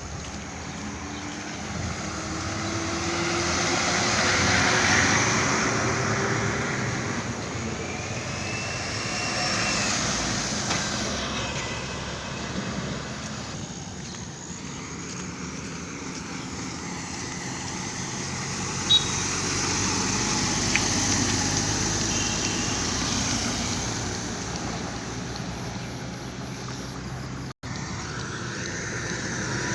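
Road traffic: vehicles passing one after another, their engine and tyre noise swelling and fading in waves.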